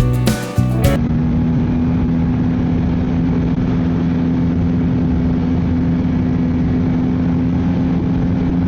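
Strummed guitar music cuts off abruptly about a second in, giving way to a Ski-Doo snowmobile engine running at a steady, even pitch and speed.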